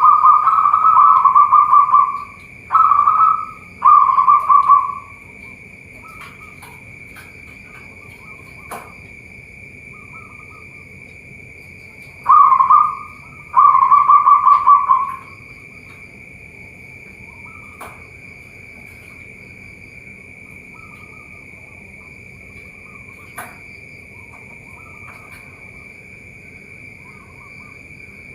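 Zebra doves (perkutut) cooing. There is one loud run of their rapid, rolling coo at the start and another about twelve seconds in, each broken into two or three phrases, with fainter coos from other doves in between. A steady high-pitched whine runs underneath.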